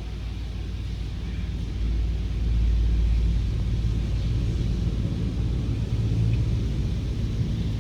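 Steady low mechanical rumble with a deep hum, swelling slightly a couple of seconds in.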